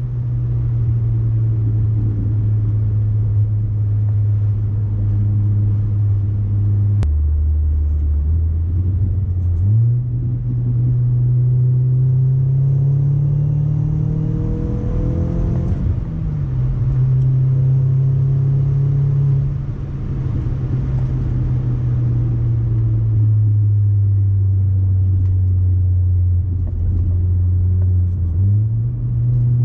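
Audi A4 1.8T turbocharged four-cylinder with an ECS catback exhaust, running under way with a steady low drone. The engine note drops suddenly about seven seconds in, then climbs, rises to a peak around halfway and falls back, dips again later and climbs near the end.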